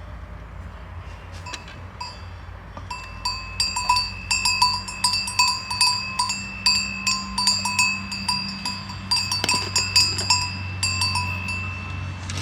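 Metal bell clanking irregularly, several strikes a second, starting about three seconds in, over a steady low hum.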